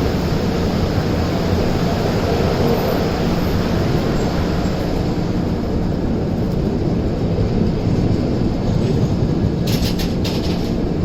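Duronto Express passenger train running along the track: a steady rumble of the wheels and coaches, with a short cluster of sharp clicks about ten seconds in.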